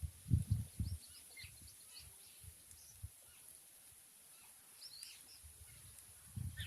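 Small birds chirping, with many short, high calls scattered through. A few low rumbling thumps come about half a second in and again near the end.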